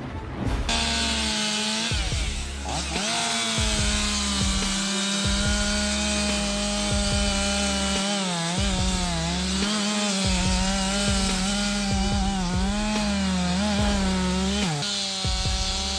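Two-stroke chainsaw at high revs cutting wood. Its pitch holds steady at first, then dips and wavers repeatedly through the middle as the chain takes the load, drops briefly near the end, and steadies again.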